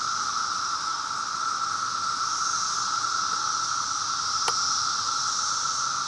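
Steady hissing background noise with two even, unchanging bands of pitch, and one faint click about four and a half seconds in.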